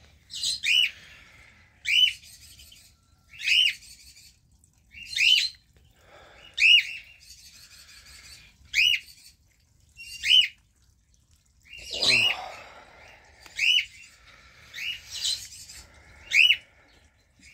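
An aviary bird giving a short, sharp call again and again, about once every second and a half, sometimes doubled. There is a brief duller noise about twelve seconds in.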